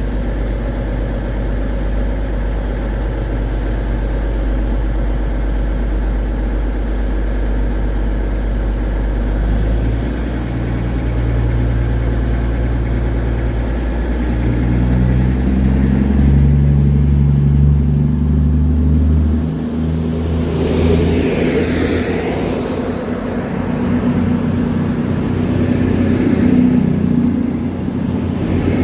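Diesel train engine idling with a steady low drone, then revving up in steps from about ten seconds in as it pulls away, with a rushing pass-by swelling and fading a little after twenty seconds.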